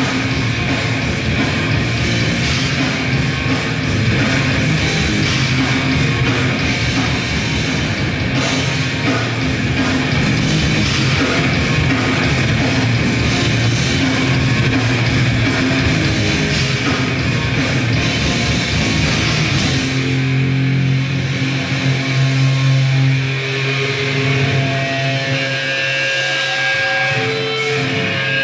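Grindcore band playing live: distorted electric guitars and bass with fast, dense drumming. About two-thirds of the way through the drums stop, leaving held, ringing guitar and bass notes.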